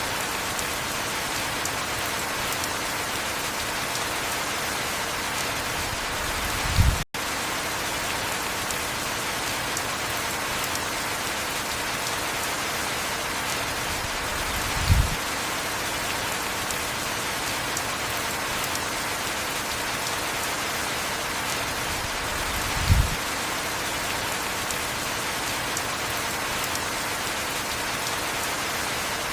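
Steady heavy rain, an even hiss, broken three times by a short, low thump about every eight seconds.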